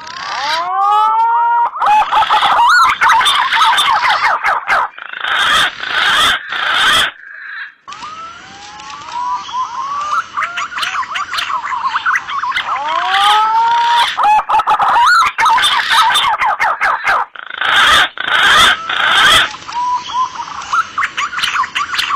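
Green pigeons (punai) calling: a dense chorus of overlapping whistled notes that rise and fall, from a lure recording edited together from several green pigeon species. The chorus breaks off abruptly several times, most clearly about 8 seconds in, then starts again.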